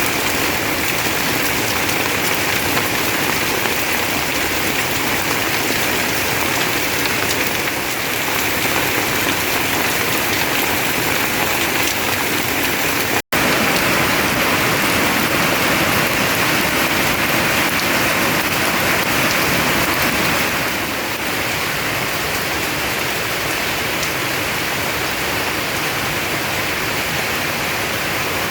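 Heavy rain pouring steadily, a dense even hiss of water. It is broken once by a split-second gap about halfway through and eases slightly near the end.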